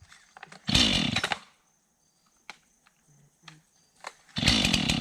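Two-stroke chainsaw being pull-started: it fires for under a second about a second in, dies, and fires briefly again near the end before dying. It has gone cold and needs the choke.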